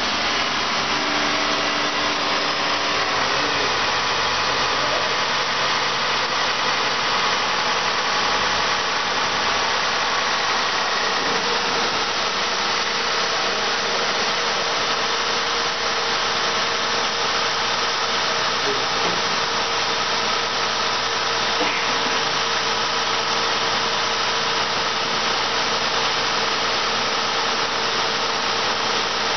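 Honda Odyssey 3.5-litre VTEC V6 idling steadily while the engine is test-run.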